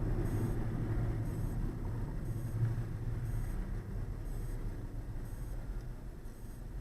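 Steady low road noise and engine hum of a car driving, heard from inside the cabin.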